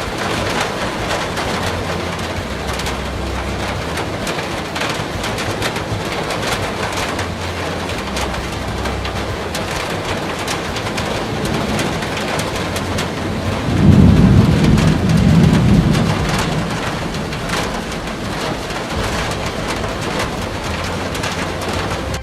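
Heavy rain pouring down steadily, with a loud low rumble of thunder just past the middle that swells and fades over about two seconds.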